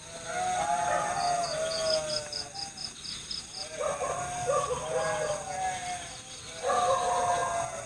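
Night forest chorus: frogs give repeated bleating, warbling calls in phrases of about a second, and a rapid pulsing call comes about four times a second for a couple of seconds. Over this runs a steady, high-pitched insect trill, typical of crickets.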